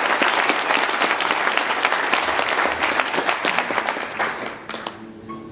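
Audience applause, a dense patter of many hands clapping that dies away over the last second or so.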